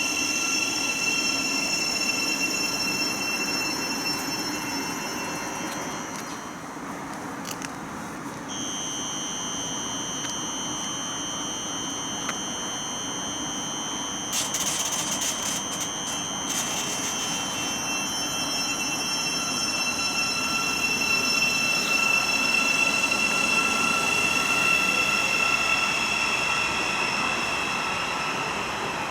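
Train running through the station, a steady rumble under high-pitched whining tones that jump up in pitch about a third of the way through and then slowly sink. A short run of sharp clicks comes about halfway.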